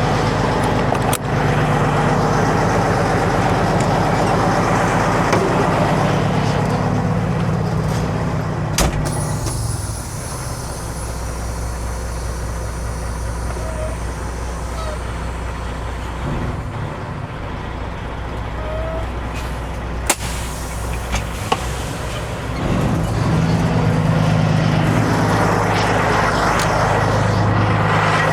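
Diesel truck engine idling steadily, louder for the first ten seconds and the last six and quieter in between, with a few sharp clicks and knocks.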